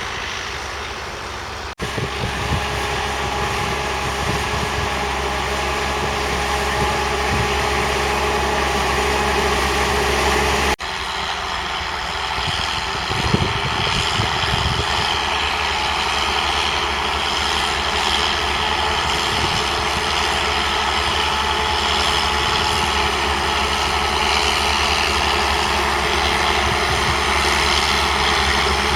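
Massey Ferguson 1200's 5.8-litre six-cylinder diesel engine running steadily, the sound breaking off abruptly twice, about two and eleven seconds in. There is a brief knock about thirteen seconds in.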